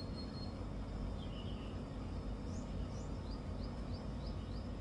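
Small birds chirping: a few scattered high chirps, then a quick run of short rising chirps at about four a second in the second half, over a steady low background rumble.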